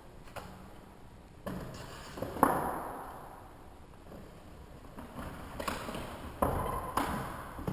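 Handling noises from unpacking a small RC helicopter from its box: a series of separate knocks, clicks and scrapes.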